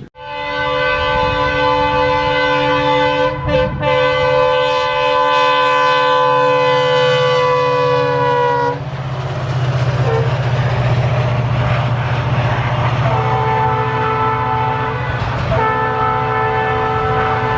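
Indian Railways diesel locomotive sounding its multi-tone horn: one long blast of about eight and a half seconds with a brief dip a few seconds in, then two shorter blasts near the end. The diesel engine runs steadily underneath.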